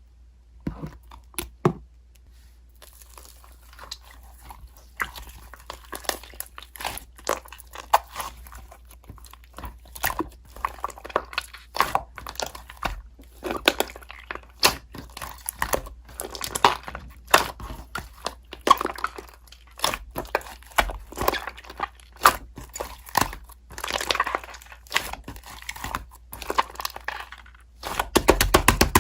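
Slime being squeezed, stretched and poked, making a dense run of wet crackles, clicks and squishes that grow louder and denser near the end.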